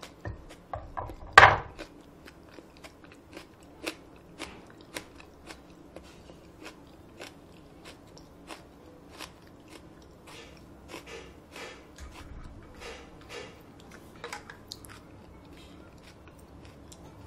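A loud crunchy bite into a stalk of raw green onion about a second and a half in, then crisp chewing with many small crunches.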